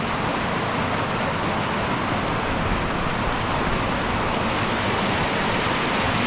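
A waterfall's fast white water rushing steadily as it cascades down between boulders.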